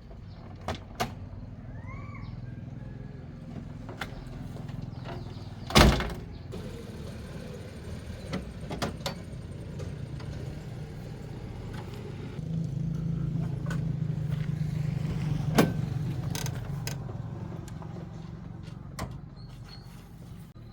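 A car engine running steadily with a low hum, getting louder for a few seconds in the second half. Scattered knocks and clanks sound over it, with one loud bang about six seconds in.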